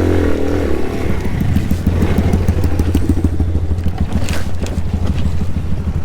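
Small moped engine running steadily on the move, a low, fast, even chugging. There is a short noisy burst about four seconds in.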